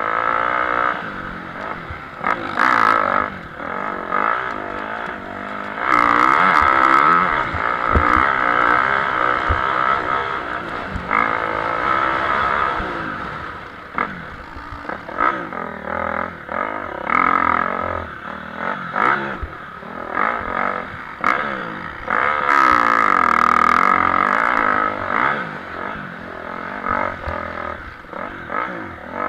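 Motocross bikes racing, their engines revving up and down as riders go through the gears and pass by, loudest about six seconds in and again near the end.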